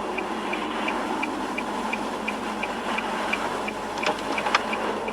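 Car turn-signal indicator ticking steadily, about three ticks a second, over engine and road noise heard inside the cabin. A few sharper clicks come around four seconds in.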